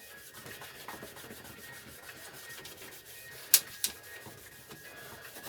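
Hand-tool work on a lawn mower: a faint steady rubbing or scraping, with two sharp knocks about a third of a second apart a little past the middle.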